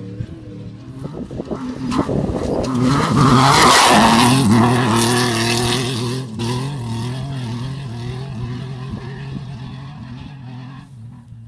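Race vehicle's engine passing at speed in an off-road desert race. It grows louder to a peak about four seconds in, with the engine note rising and falling, then fades as it goes away.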